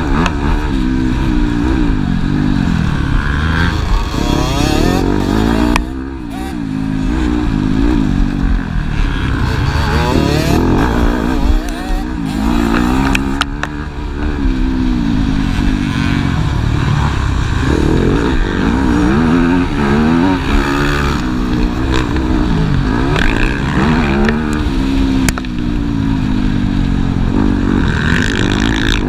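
Several motocross bikes racing, their engines revving up and dropping off again and again, with more than one engine heard at once.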